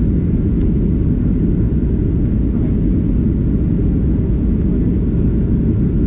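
Steady low rumble of an airliner heard from inside the passenger cabin: engine and airflow noise with no change in pitch or level.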